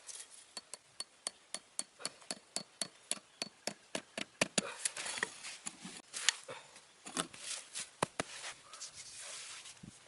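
Repeated sharp strikes of a hand tool, about three or four a second, turning irregular about halfway through, with scraping and rustling between the blows.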